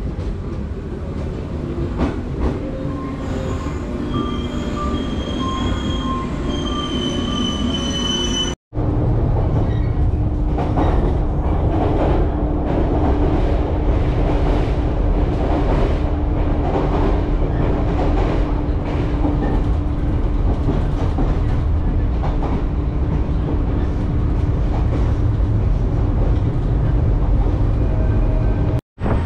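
Passenger train running on the rails, heard from inside the carriage: a steady low rumble with a constant hum. It follows a short stretch of lighter train noise carrying a few thin high tones.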